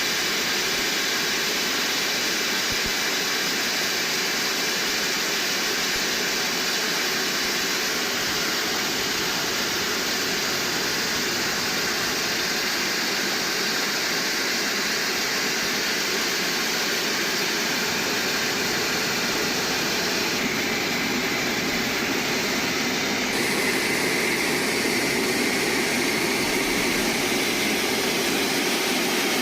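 Sawmill machinery running with a loud, steady mechanical drone, its tone shifting slightly about twenty seconds in.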